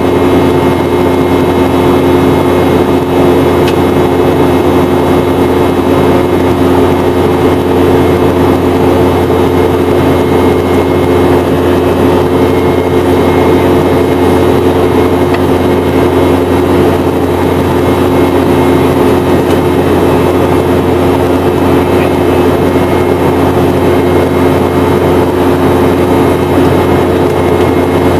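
Steady cabin noise inside a Boeing 717-200 in flight, heard from a rear seat near its tail-mounted Rolls-Royce BR715 jet engines: a constant engine drone with a few steady humming tones over airflow rush.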